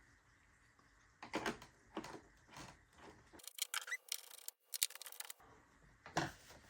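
Light clicks and taps of hands handling small plastic model-airplane parts and tools, irregular, with a few sharper clicks near the middle.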